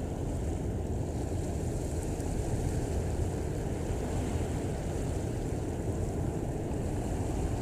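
Steady low rumble of a large container ship under way, mixed with wind and moving water.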